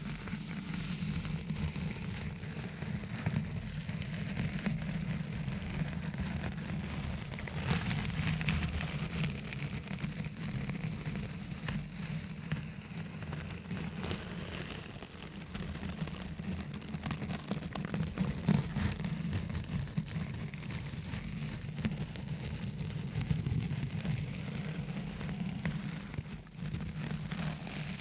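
Fingers tapping and scratching fast directly on a microphone, a dense continuous patter of small clicks with a heavy low thud from the mic body.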